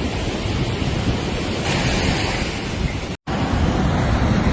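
Hurricane wind buffeting the microphone over heavy surf, a steady rushing noise with a deep rumble. The sound drops out for an instant about three seconds in, where two clips are joined.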